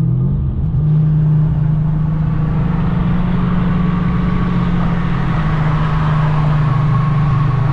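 Car engine and exhaust droning at a steady speed, holding one even pitch throughout, with no revving up or down.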